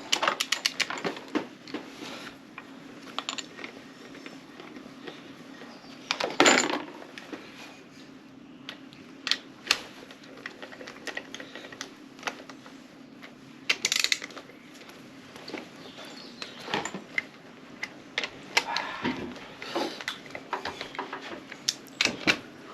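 Irregular metal clicks, clinks and taps from hand tools working on a Yamaha TZ 350 two-stroke engine's cylinder head. There is a quick run of rapid ticks at the start and louder clusters of clinks twice later, over a faint steady hum.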